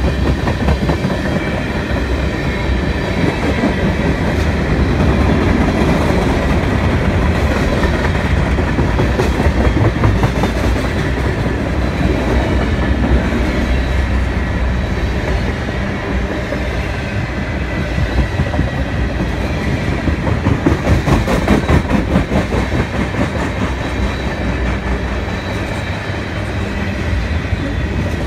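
Freight train of loaded tank cars rolling past close by: a steady rumble of steel wheels on rail, with rhythmic clickety-clack as wheels cross rail joints, most regular in the last third.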